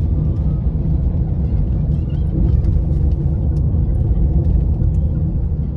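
A loud, steady low rumble with no clear pitch.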